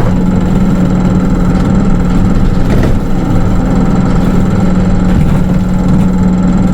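Hino Rainbow II (SDG-KR290J1) bus with automatic transmission, its engine heard from inside the cabin as a steady drone with a constant low hum.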